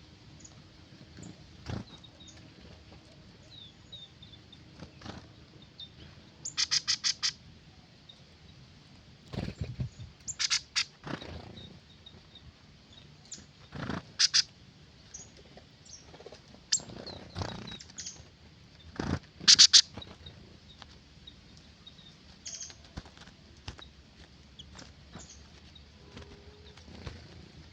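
Birds calling: several short bursts of rapidly repeated notes, the loudest about nineteen seconds in, with faint high chirps in between. A few dull knocks are heard along the way.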